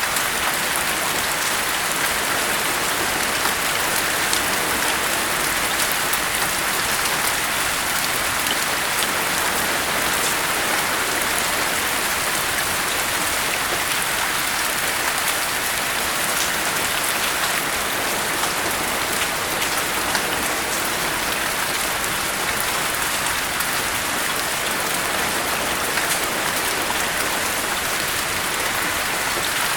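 Steady rain falling: an even hiss with fine scattered drop ticks.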